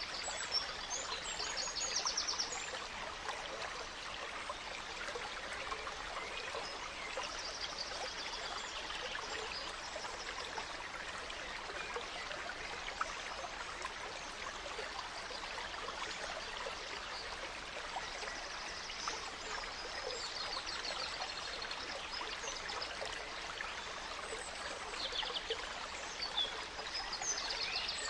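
A gentle stream trickling steadily over stones, with small birds calling and twittering in short high-pitched bursts now and then.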